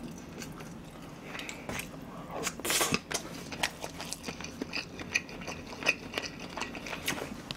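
Close-miked chewing of a mouthful of kimchi fried rice: a run of short, wet mouth clicks, with one louder click about three seconds in.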